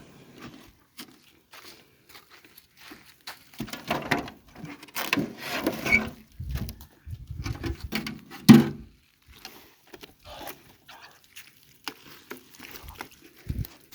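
Scattered taps, rustles and clatter as feed for ducks and other poultry is put down, with one sharp knock about eight and a half seconds in.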